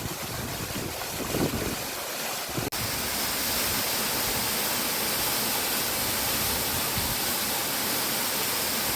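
Waterfall rushing: a steady, even roar of falling water. Wind buffets the microphone in the first few seconds, then there is a brief dropout and the roar runs on steadier.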